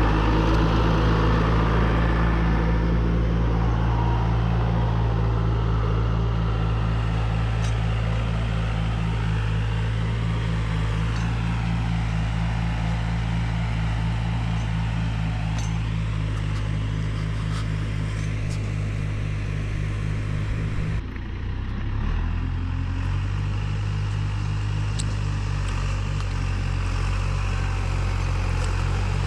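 An engine running steadily at a constant speed. About two-thirds of the way through it dips briefly, then runs on at a slightly different pitch.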